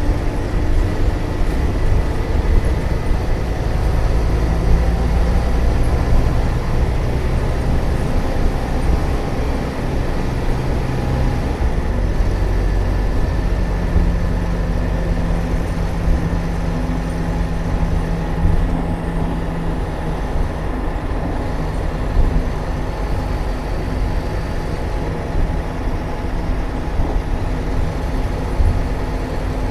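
Scania K320UA bus's rear-mounted DC09 9.3-litre five-cylinder turbo diesel running under way with a steady drone that changes pitch about twelve seconds in.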